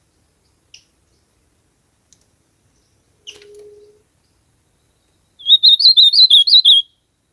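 Ultramarine grosbeak (azulão) singing: a faint short call early, then about five seconds in a loud, quick warbling phrase lasting about a second and a half. A brief faint low hum comes about halfway through.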